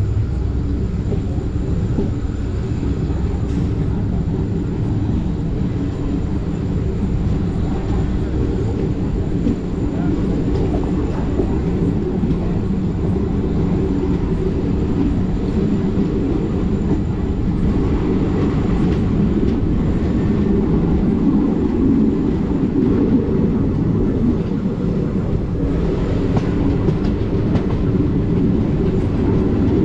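A train running steadily along the track: a continuous rumble of wheels on rails that grows slightly louder in the second half.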